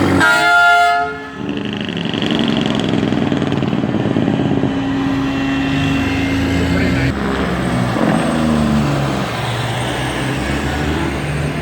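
A parade truck's horn sounds in several stacked tones and cuts off about a second in, then truck engines run steadily as they pass, with voices in the mix.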